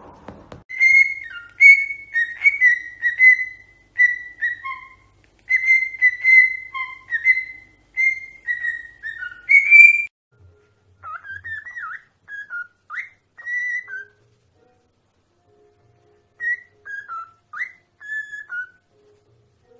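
Parrot whistling a tune: a quick run of clear notes around one pitch for about ten seconds, then, after a short pause, quieter whistles that slide up and down.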